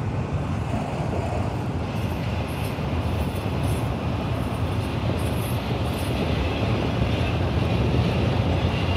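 Double-stack intermodal freight train rolling by, a steady rumble of its wheels on the rails.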